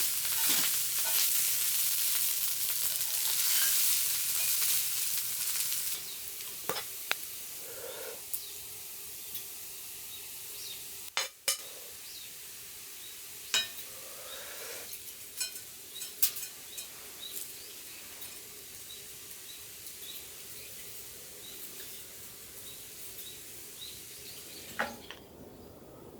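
Rain hissing on a tent, heavy at first and easing after about six seconds into a softer patter with scattered individual drops ticking sharply.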